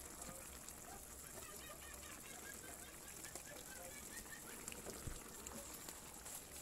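Faint bird chirping: a quick run of short chirps from about two to four and a half seconds in, over a steady faint hiss.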